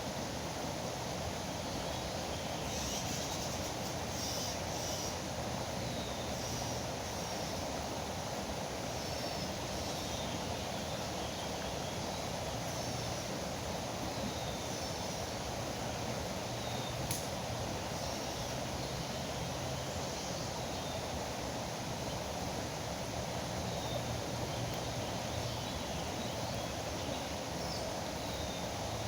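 Steady rush of flowing, foaming river water, with small birds chirping briefly now and then over it.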